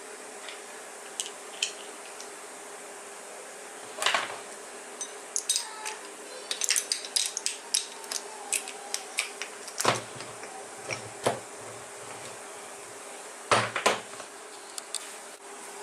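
Metal tools and motor parts being handled and set down: a run of sharp clinks and clicks, with a few louder knocks, over a steady faint hum.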